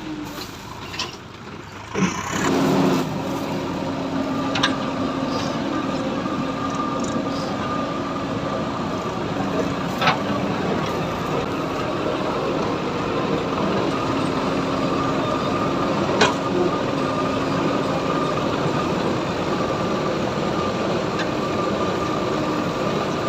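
A diesel tractor engine runs steadily with a constant hum, picking up sharply about two seconds in. A few sharp knocks sound through it.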